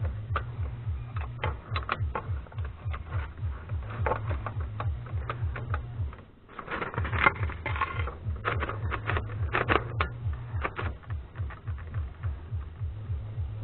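Remington Noiseless No. 6 typewriter mechanism being worked by hand: irregular clicks and rattles over a low pulsing hum. Both break off briefly about six seconds in, then go on.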